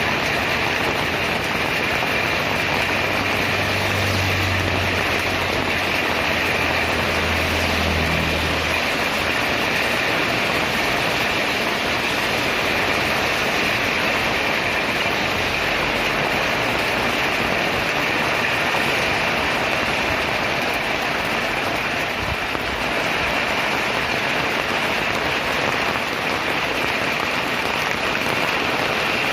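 Heavy rain falling steadily. A low engine hum, a vehicle on the highway, runs under it for several seconds in the first third.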